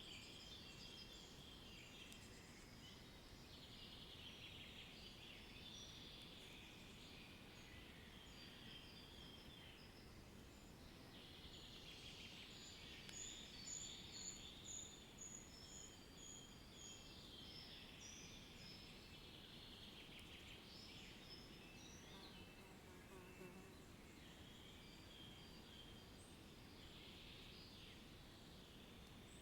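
Faint birdsong: several birds chirping and calling, including a quick run of short high notes about halfway through, over a soft steady background hiss.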